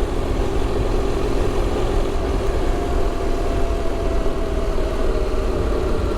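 KTM motorcycle engine running steadily under the rider, a low rumble with a faint tone that slowly drops in pitch from about halfway in.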